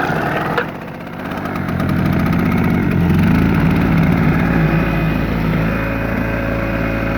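Power Craft 650 W two-stroke generator cold-started on choke with the recoil pull and catching at once; the engine sags briefly about a second in, then picks up to a steady run from about two seconds on.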